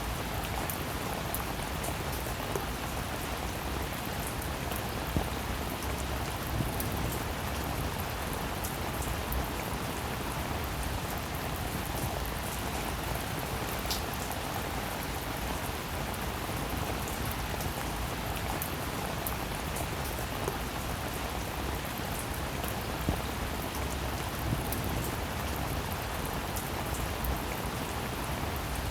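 Steady, even rainfall: a constant patter of many drops, with a few louder single drop ticks standing out now and then.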